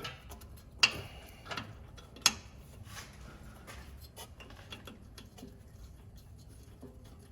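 Sharp clinks and knocks of tools and exhaust pipe being fitted under a car: three loud ones in the first two and a half seconds, then lighter scattered ticks over a low steady hum.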